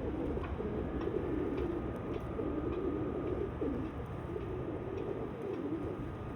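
Several feral pigeons cooing, their low wavering coos overlapping without a break.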